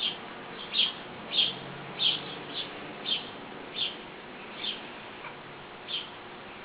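A small bird chirping over and over, about ten short, high chirps at a steady pace of roughly one every two-thirds of a second.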